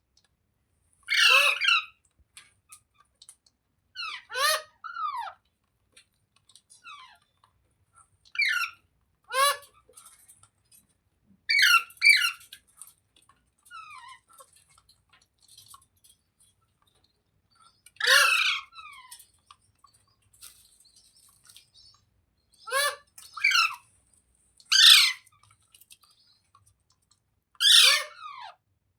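Indian ringneck parrot (rose-ringed parakeet) calling: about ten short calls at irregular gaps of one to six seconds, each under a second and falling in pitch.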